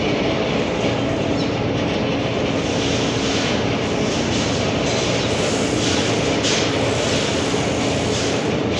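A machine running steadily and loudly, a constant hum under a rushing noise that holds the same pitch throughout.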